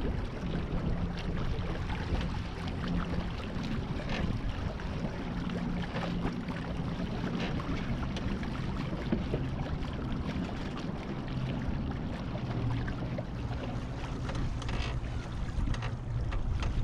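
Wind rumbling on the microphone and water washing past the hull of a small sailboat under way, with a few light knocks.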